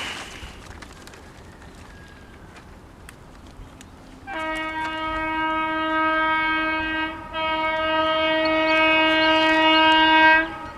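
WAP-7 electric locomotive's air horn sounding two long, steady blasts about three seconds each, with only a brief break between them, starting about four seconds in.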